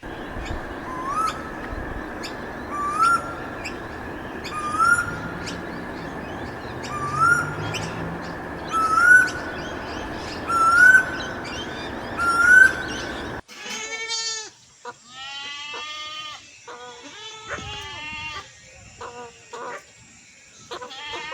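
A bird gives a short rising call seven times, about two seconds apart, over a steady hiss. After an abrupt cut about two-thirds of the way in, goats bleat several times.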